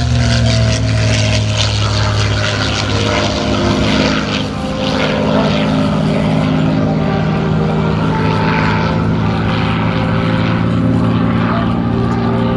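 P-51D Mustang's Packard Merlin V12 engine running at high power as the plane makes a fast pass, a steady, loud drone with a thin whistle riding over it.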